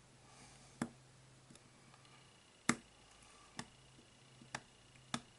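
Five sharp clicks, irregularly spaced, the second the loudest, as a lens is pushed down through the threaded tube of a Weaver J2.5 rifle scope; the clicking is taken as the sign that the lens is moving out.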